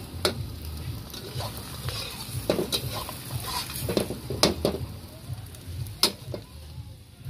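A Thai omelette sizzles as it fries in a steel wok. A metal spatula scrapes and knocks against the wok about seven times.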